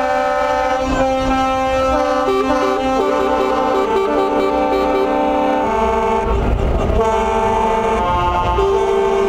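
Truck musical air horns playing a tune: several held horn notes sounding together and changing pitch step by step, over a low engine rumble.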